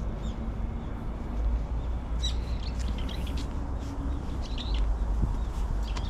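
Small birds chirping in short, scattered calls, a few times over the few seconds, over a steady low rumble.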